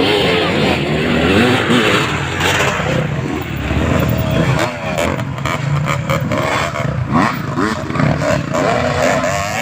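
Motocross dirt bikes racing, their engines revving up and down in pitch.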